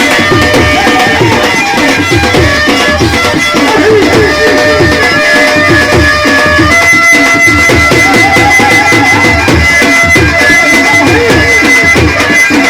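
Indian devotional folk music (a bhajan): a reedy melody over long held drone notes, with a hand drum keeping a steady beat.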